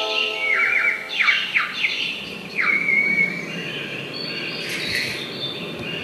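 Birds chirping, several quick downward-sweeping chirp series in the first three seconds, part of a recorded soundtrack played over the hall's loudspeakers. Mallet-percussion notes die away in the first second, and there is a brief hiss about five seconds in.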